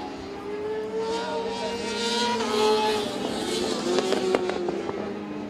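Racing sportbike engines at high revs as the bikes pass. The pitch climbs, then drops sharply at a gear change about two and a half seconds in, and a few sharp cracks come about four seconds in.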